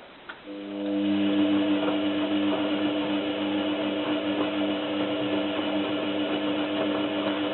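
Zanussi FLA1002W washing machine's drum motor starting after a wash pause, with a click just before it, then running steadily with a whine as the drum tumbles the duvet in one direction during a 60° wash.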